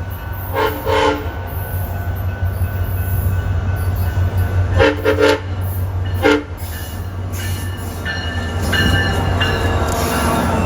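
Brightline high-speed train sounding its horn in three blasts: one near the start, one about four seconds later and a short one just after, over a steady low rumble. High-pitched wheel squeal sets in during the last few seconds.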